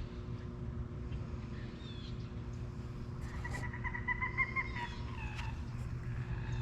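A bird giving one drawn-out, slightly wavering call of about two seconds, starting about halfway through and ending in a short downward slur, over scattered footsteps.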